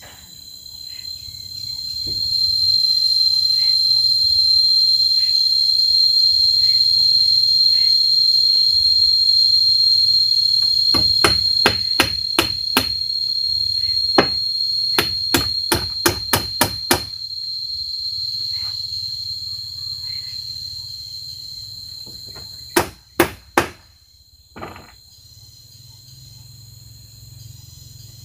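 An insect's high, steady buzzing whine. It swells up over the first couple of seconds, holds, and slowly fades in the second half. Series of sharp knocks cut across it near the middle, and three more come near the end.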